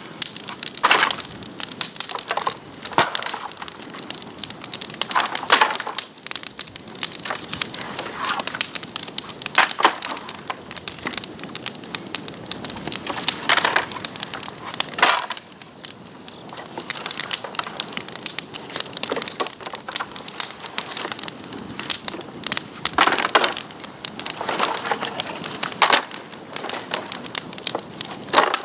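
Bamboo branches burning in an open bonfire, crackling densely with irregular louder snaps and pops.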